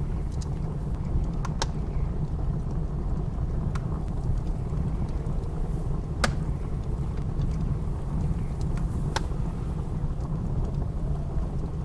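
Wood fire crackling, with a few sharp, isolated pops every few seconds, over the steady deep rumble of blizzard wind.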